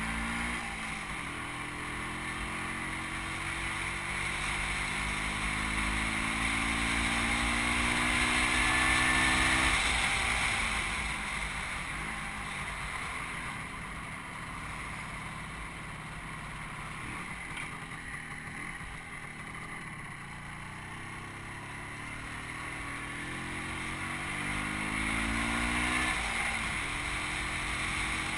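Motorcycle engine pulling steadily, its pitch climbing for several seconds and dropping about ten seconds in. It climbs again later and falls near the end, under wind noise on the microphone.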